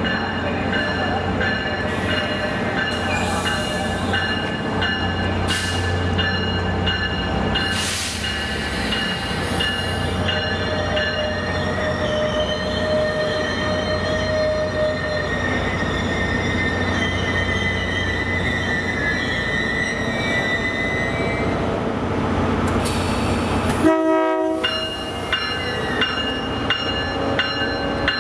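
Diesel locomotive hauling a bi-level commuter train into a station at walking pace, engine running steadily, with squealing from the wheels or brakes as it slows.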